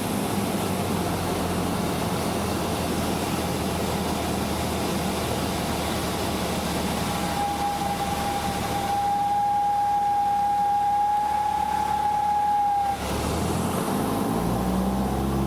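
Light aircraft engine and propeller droning steadily inside the cabin. A single steady high tone sounds for about five seconds in the middle.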